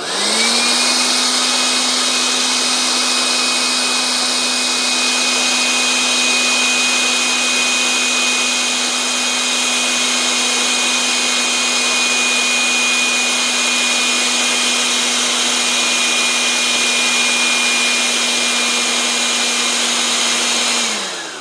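Battery-powered hair dryer's blower motor spinning up and running steadily, with a rush of air and a steady whine. Near the end it winds down and stops on its own while the trigger is still held: the intermittent cut-out fault the owner puts down to the dryer rather than the battery.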